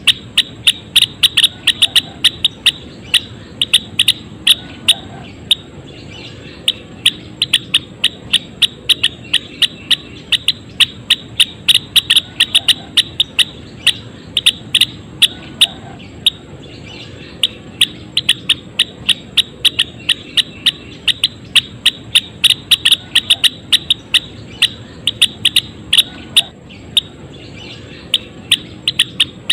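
A gelatik wingko songbird calling in fast runs of short, sharp, high chip notes, several a second, with brief pauses between runs.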